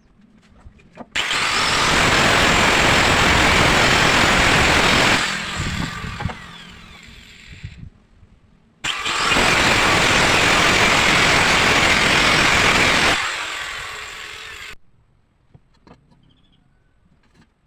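A power tool run in two bursts of about four seconds each, starting at full speed and winding down for a couple of seconds after each release.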